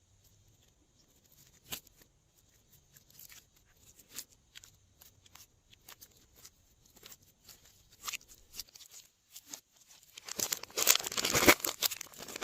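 Glossy slime being handled: scattered sticky clicks and small pops, then about two seconds of dense, louder crackling near the end.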